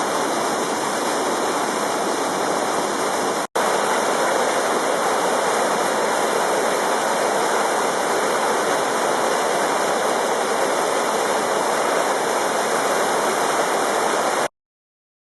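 Waterfall in heavy spring flow: a steady, loud rush of falling water. It cuts out for an instant about three and a half seconds in and stops abruptly near the end.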